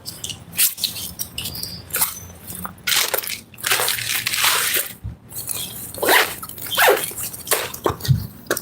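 Busy fast-food restaurant bustle: irregular rustling and clattering bursts coming and going every second or so, with no clear speech.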